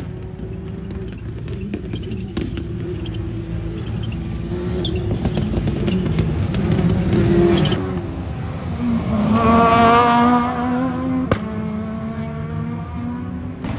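Rally car engines running hard on a circuit, the pitch rising and falling as the cars accelerate and lift off, loudest as one pulls up through the revs about two-thirds of the way in. A single sharp crack follows, typical of an exhaust pop.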